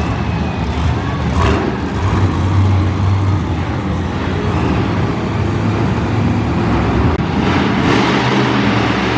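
Monster truck engine running and revving, a loud low drone that swells around two to three seconds in and again near the end.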